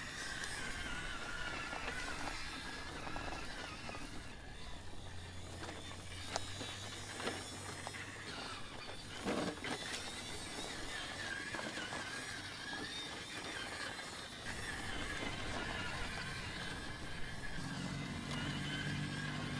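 Electric motor and drivetrain of a 1/10-scale Element RC Enduro Knightrunner crawler truck whining as it drives, the pitch wavering up and down with throttle, with a few clicks and knocks along the way.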